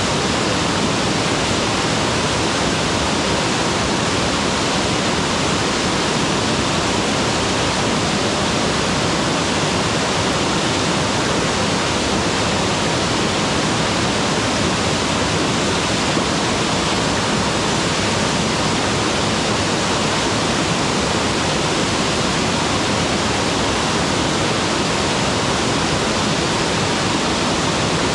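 Mountain waterfall pouring steadily, a loud, even rush of falling water.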